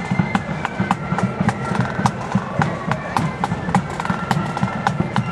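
Marching flute band playing: flutes carry a melody in held, stepping notes over rapid snare-drum strikes and a bass drum.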